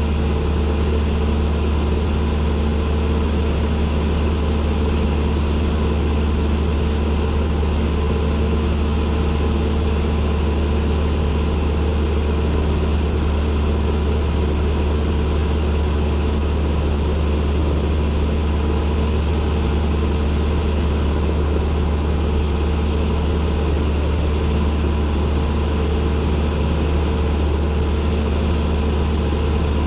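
Cessna 172N's four-cylinder Lycoming piston engine and propeller running steadily in flight, an even low drone that does not change.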